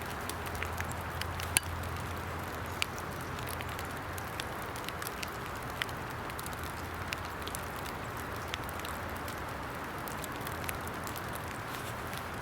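Small fire of damp twigs and pine chips crackling, with irregular sharp pops scattered over a steady hiss; the fire is still only partly lit.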